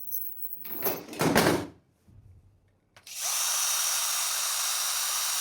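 A drill-like power tool starts abruptly about three seconds in and runs steadily with a thin high whine, as a scratch-resistance test on a phone screen protector.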